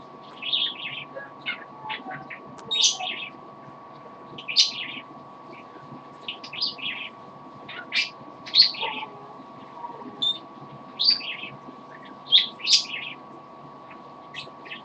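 Pet parrot chirping and whistling in short, high calls, a dozen or more scattered irregularly, over a steady faint electrical hum.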